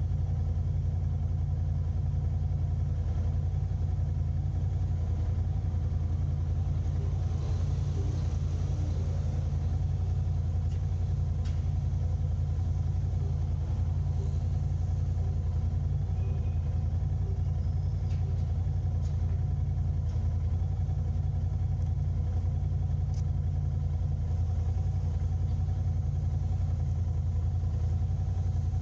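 Car driving: a steady low rumble of engine and road noise that does not change, with a few faint ticks.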